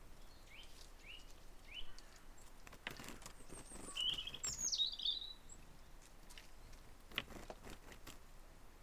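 Small birds calling: three short rising chirps in the first two seconds, then a brief high twittering phrase about four seconds in. A few sharp taps sound among them.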